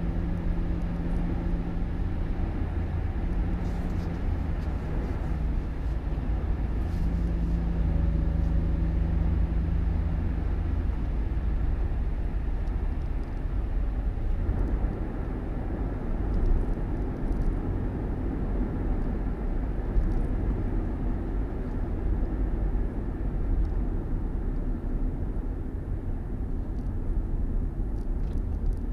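Steady low rumble of a vehicle engine and road noise. An engine hum comes and goes during the first ten seconds.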